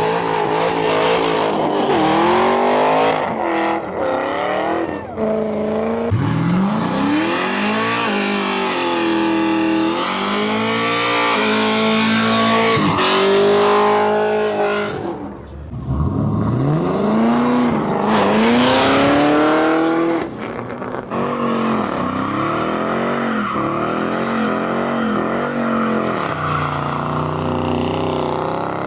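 Car engine revving hard, its pitch sweeping up sharply and dropping several times, then held at steady high revs for the last several seconds.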